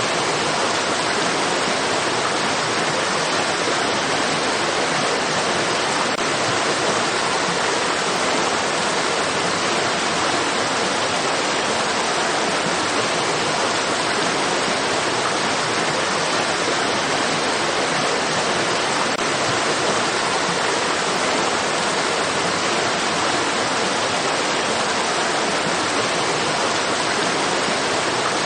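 Running water from a stream, a steady, unbroken rush with no changes.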